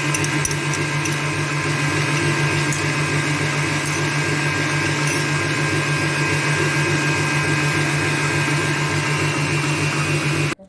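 Electric mixer running at full speed, whisking eggs and sugar to double their volume; a steady motor whine that cuts off suddenly just before the end.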